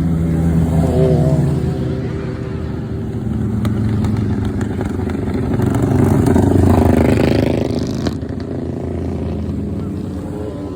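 A group of motorcycles riding past, their engines running together; the sound swells as bikes go by, loudest about two-thirds of the way through with a rising note, then eases off.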